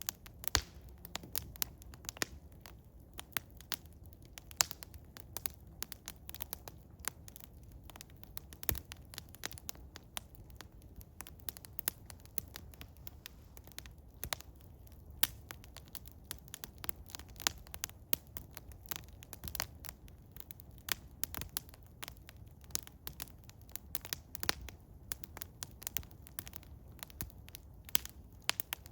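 Eastern hemlock wood fire burning, crackling with frequent irregular sharp pops and snaps over a low steady rumble of the flames.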